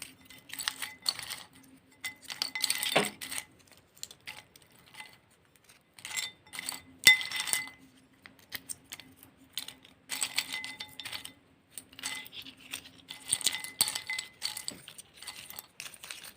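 Hard objects clinking and clattering in repeated bursts, with one sharp clink about seven seconds in; a faint steady hum comes and goes underneath.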